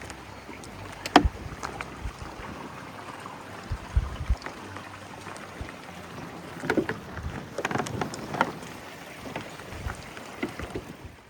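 Footsteps and gear knocks of hikers walking a trail: irregular scuffs and clicks over a steady outdoor hiss, with one sharp knock about a second in and a cluster of them near the end.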